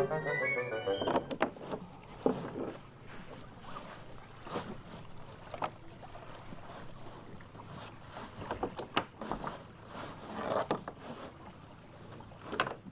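Kayak gear being handled: scattered, irregular knocks and bumps of the kayak and paddles.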